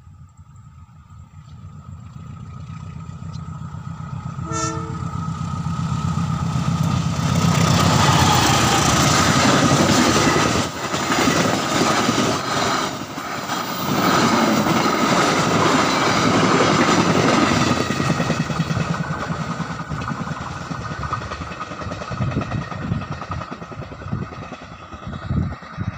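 Indonesian KAI passenger train approaching on open track, sounding one short horn blast about four and a half seconds in. It then passes close by, its wheels rumbling and clattering over the rails, loudest from about eight to eighteen seconds in, and fades as it goes away.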